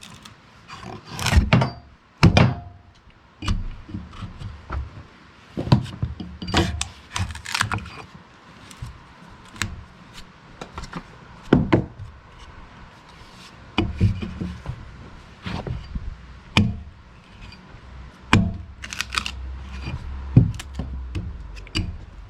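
Irregular knocks, thunks and scrapes of hands-on work at a log on a small sawmill: wood and metal tools striking and sliding, at no steady rhythm. A low steady hum comes in during the second half.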